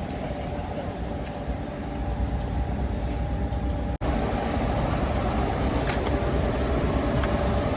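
Car engines running steadily, a low rumble with a faint steady tone over it, breaking off for an instant about four seconds in.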